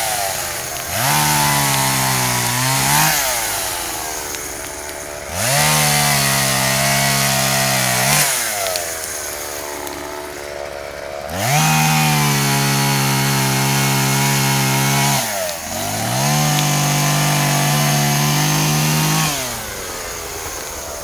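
Petrol chainsaw cutting a felled tree into pieces. The engine revs up to full throttle for four cuts of about two to four seconds each, dropping back to idle between them.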